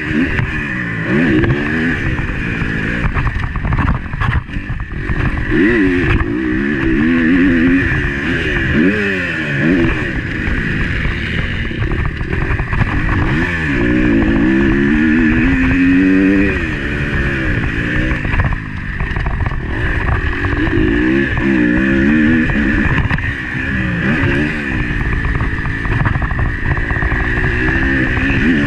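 Motocross bike engine heard from on board, revving up and falling back again and again as the rider accelerates, shifts and backs off, over a steady rushing noise.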